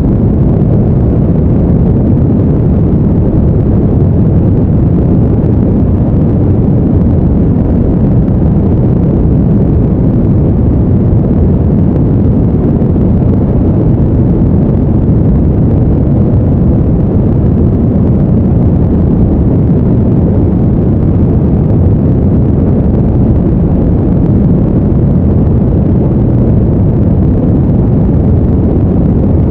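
Steady, deep rushing noise, even and unchanging, with its weight in the low end and little treble: a brown-noise-like sleep background.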